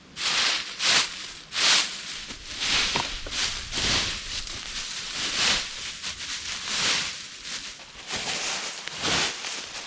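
Dry leaf litter and sticks rustling in irregular, repeated swishes as the forest floor is cleared of debris by hand.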